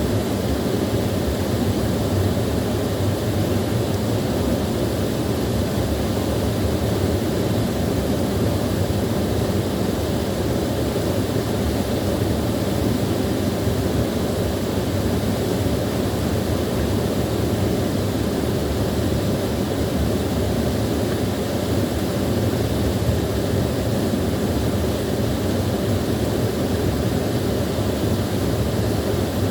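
Small waterfall rushing steadily, a constant deep roar of falling water.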